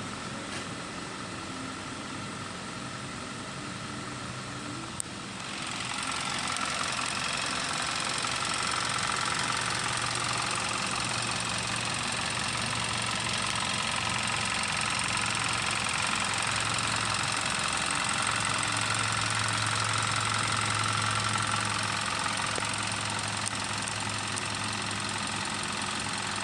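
Hyundai Tucson engine running steadily, getting louder and brighter about five seconds in and holding there.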